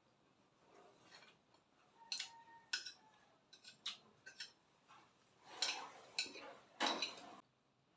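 Eating utensils clinking and scraping on a plate, in scattered short clicks with a brief ring about two seconds in, and two longer, louder scrapes in the second half.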